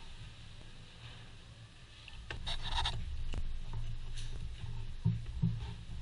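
Mechanic's work at the accessory belt drive: intermittent scraping and rubbing with clicks, and two sharper knocks near the end, over a low steady hum.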